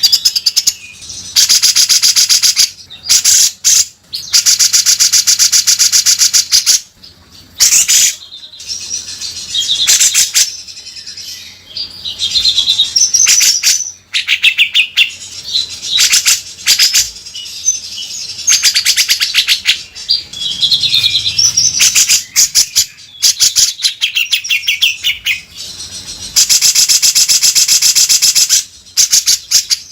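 Cucak jenggot (grey-cheeked bulbul) singing loudly and without pause: long harsh buzzing rattles of about two seconds each (the rough 'beset' call) alternate with short quick warbled phrases.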